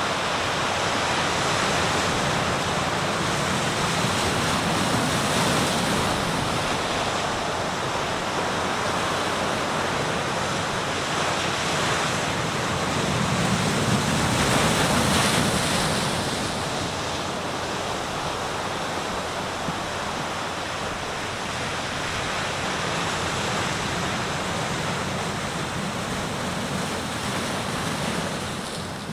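Sea surf washing continuously onto the shore, with one wave breaking louder about halfway through and then receding.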